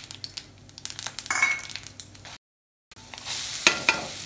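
Urad dal, dried red chillies and asafoetida frying in oil in a kadai, crackling with scrapes of a metal ladle. After the sound drops out briefly, grated sweet potato hits the hot oil and a louder, steady sizzle starts. Two sharp clinks of the perforated ladle on the pan follow.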